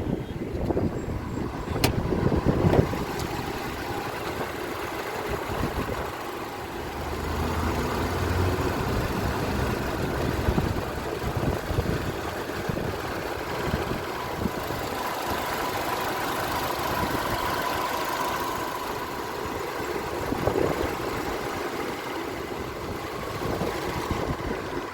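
A 2009 Nissan Altima's engine running steadily, with continuous vehicle noise.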